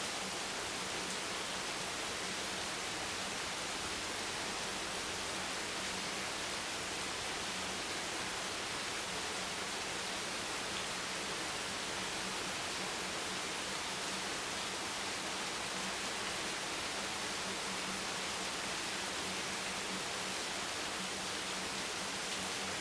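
Steady rain: an even hiss without a break or change.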